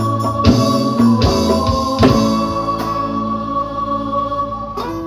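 Dangdut koplo band music: quick drum strokes for about two seconds, then a chord held and slowly fading.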